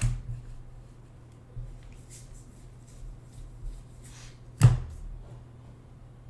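Trading cards being handled at a table: a sharp knock as something is set down, a louder knock about four and a half seconds in, and light rustling and sliding between them, over a steady low hum.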